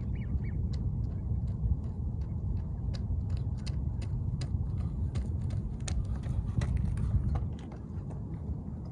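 Birds chirping in many short, sharp calls over a steady low rumble.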